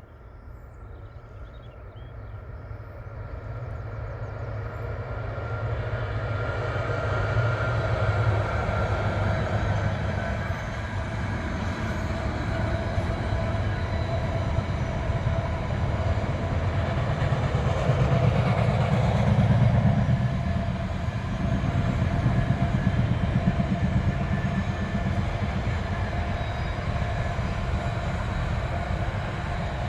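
A diesel-hauled freight train approaching and passing. The locomotive's engine grows steadily louder over the first several seconds and is loudest about two-thirds of the way through, then the wagons keep running past with a continuous rolling noise.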